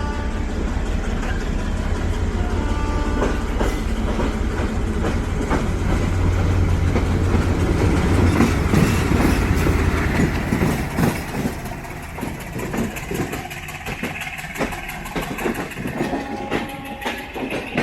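Passenger train running on the rails with a heavy, steady rumble that eases off about ten seconds in, giving way to quick, irregular clacking of the wheels over rail joints.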